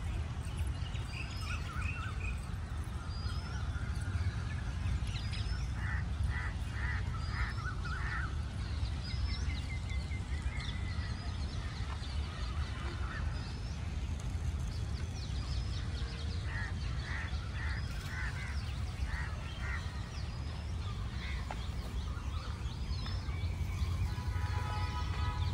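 Several birds calling: repeated short high chirps, with two runs of about five quick calls, over a steady low rumble.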